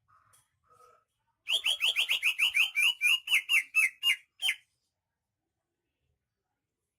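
Cucak ijo (green leafbird) singing: a few faint short notes, then about a second and a half in a fast run of some sixteen loud, sharp notes that each drop in pitch, lasting about three seconds and stopping abruptly.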